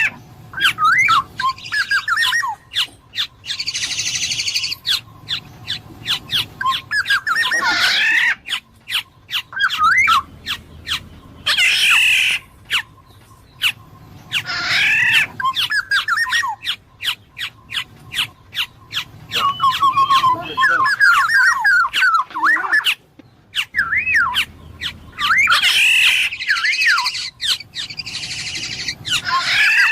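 Black-naped oriole calling over and over: harsh, nasal squawks alternating with short, wavy whistled notes, with many sharp clicks in between.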